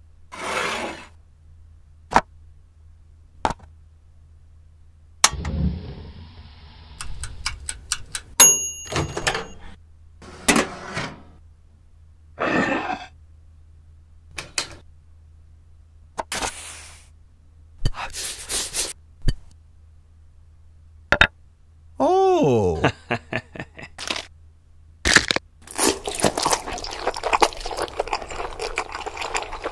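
A string of separate short handling sounds: small plastic LEGO pieces clicking, clattering and scraping with a spoon in a bowl and on a board, at irregular intervals. A brief falling tone comes a little past the middle, and a steady hiss runs through the last few seconds.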